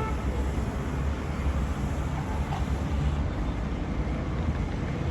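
Wind buffeting the microphone over a steady rumble of city traffic, with no single event standing out.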